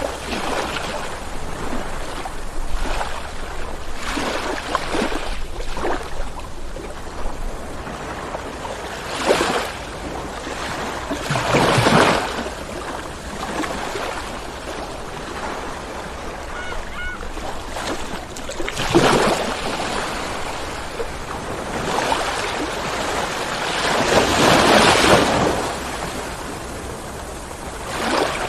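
Ocean waves rolling in and breaking on the shore, a continuous wash that swells with each breaker. The biggest breaks come about a third of the way in, around two-thirds in, and near the end.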